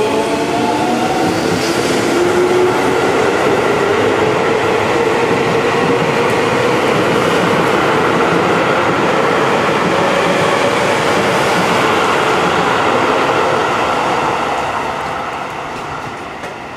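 Electric commuter train pulling out and accelerating. Its motor whine rises in pitch over the first couple of seconds, then gives way to a steady rumble of wheels on the rails, which fades from about two seconds before the end as the train draws away.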